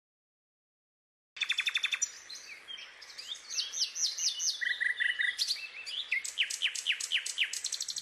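Silence, then about a second and a half in, birds start chirping: rapid runs of short high chirps, quick downward-sweeping notes and a brief trill.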